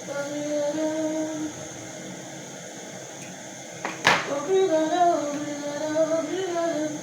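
A woman singing a slow tune in long held notes, with a pause partway through. One sharp knock comes about four seconds in.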